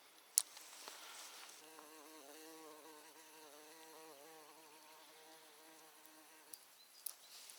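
A flying insect buzzing close by for about five seconds, its hum wavering up and down in pitch. A sharp click comes just before the buzz starts, and a few fainter clicks follow near the end.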